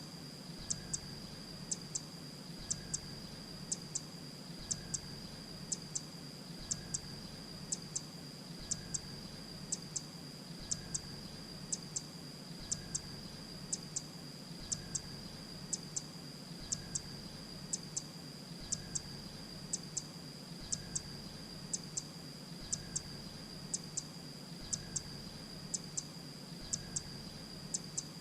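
Grey-breasted prinia calling: short, sharp high chip notes, mostly in pairs, repeating evenly about once a second, over a steady high-pitched whine and a low hum.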